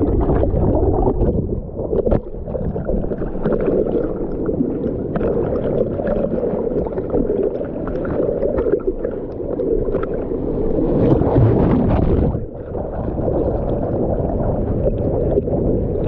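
Ocean surf and water splashing close to the microphone, a continuous churning wash, brighter and louder for a moment about eleven seconds in.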